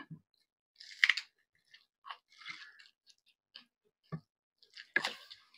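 Close-up chewing and wet mouth smacks of people eating rice mashed with gravy, heard as irregular short clicks and smacks, the sharpest about a second in and again near the end.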